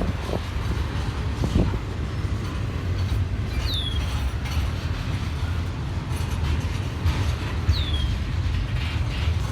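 CSX I-162 intermodal freight train rolling slowly past: a steady low rumble of the cars, with a brief falling squeal about every four seconds.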